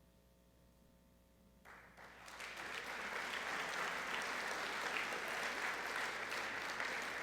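Audience applauding in a large hall: faint room tone, then clapping breaks out a little under two seconds in, swells within about a second, and carries on steadily.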